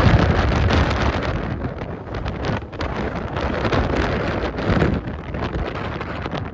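Strong gusting wind buffeting the microphone, a loud rumbling roar that swells and eases with the gusts.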